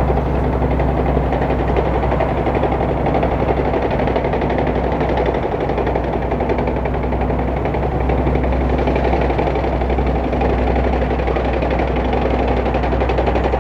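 Type 10 main battle tank driving by. Its V8 diesel engine runs with a steady low drone, and its tracks give a rapid, even clatter.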